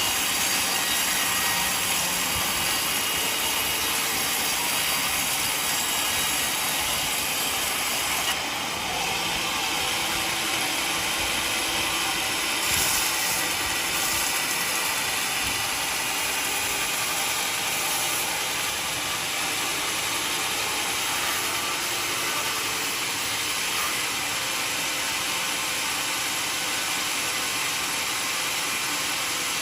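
Portable sawmill running steadily as its blade cuts through a mahogany log, a continuous hissing mechanical noise with a brief dip about eight seconds in.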